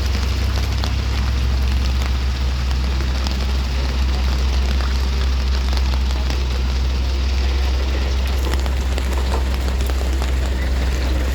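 An engine running steadily with a deep low rumble, with a crackling noise over it.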